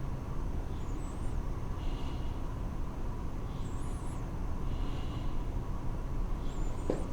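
Steady low rumble of room background noise, with faint short hisses about every three seconds that sound like breathing close to the microphone.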